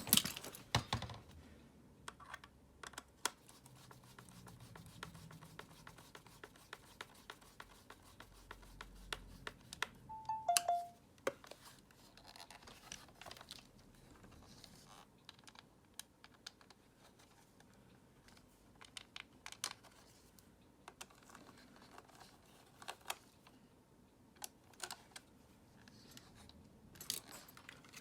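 Scattered light clicks and taps of the plastic housing and parts of a Dyson vacuum cleaner being handled and fitted by hand. There is a brief two-note falling tone about ten seconds in.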